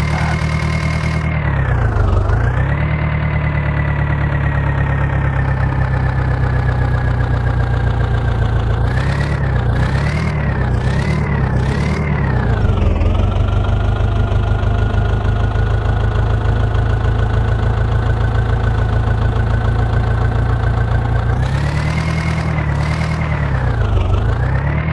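Diesel engine of a JCB 3DX backhoe loader running at high revs. Its speed dips and recovers briefly as it takes load: once a couple of seconds in, in a quick series of dips in the middle, and again near the end.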